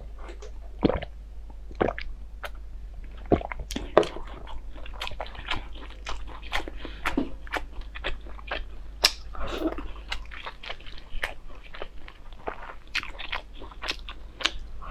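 Close-up chewing of a crisp, crumbly fried food eaten by the spoonful: a quick, dense run of sharp crunches.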